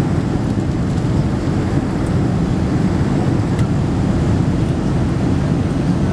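Steady cabin noise inside a Boeing 767-300 in flight: a constant deep rumble of the jet engines and airflow over the fuselage, with a fainter hiss above it.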